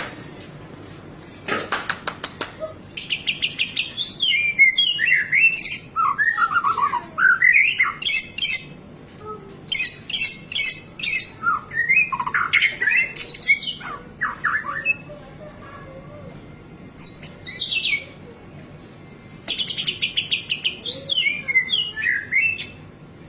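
White-rumped shama singing a loud, varied song of rapid trills and sweeping whistled notes, full of imitated phrases. It comes in several bursts with short pauses between them.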